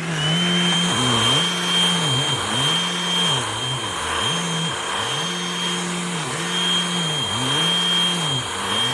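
Powools cordless handheld vacuum running with its motorised brush roller: a steady motor hum under a high whine. The hum dips in pitch and recovers about once a second as the vacuum works over the carpet picking up dog hair.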